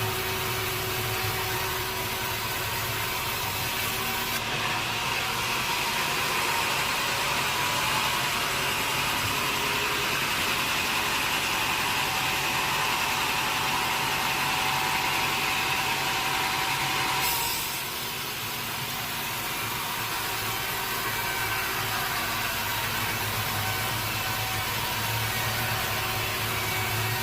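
Sawmill saw running steadily, with a long stretch of cutting through a teak log that ends about seventeen seconds in, after which the machine keeps running.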